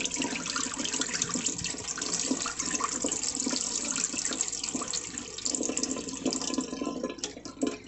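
Collected water pouring out of a full mini dehumidifier's tank through its opened drain plug and splashing into a sink; the pour stops just before the end.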